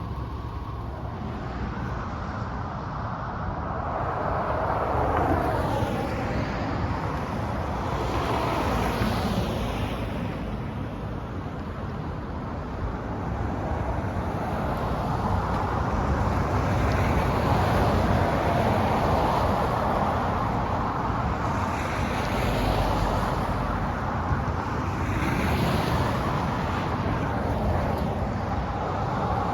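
Road traffic passing: a run of vehicles whose tyre and engine noise swells and fades every few seconds.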